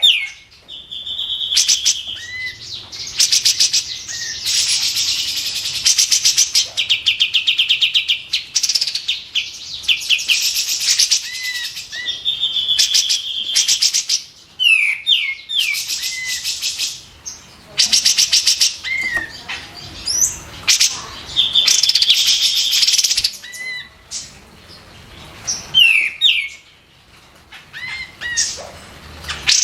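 Kapas tembak bulbul singing without pause: phrases of loud, fast rattling trills alternate with held whistled notes and quick rising and falling chirps, repeated with short gaps.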